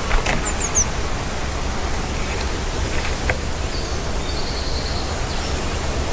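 Steady rushing outdoor background noise, with small bird sounds over it: three quick high downward chirps near the start, a sharp knock a little after three seconds, and a thin high held note about four to five seconds in.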